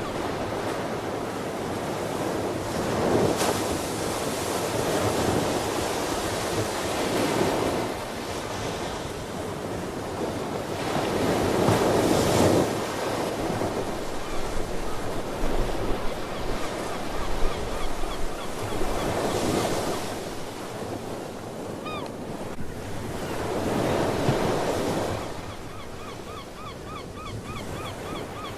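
Ocean surf: waves breaking and washing in, swelling every five to eight seconds. Short repeated seabird calls come through near the end.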